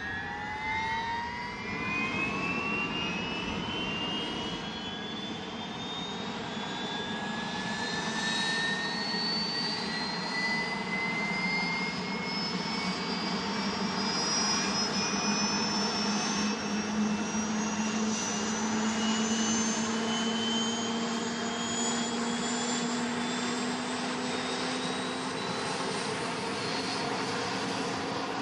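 Helicopter turbine engine starting up: a whine that begins suddenly and rises steadily in pitch as the turbine spools up, over a steady rush of air.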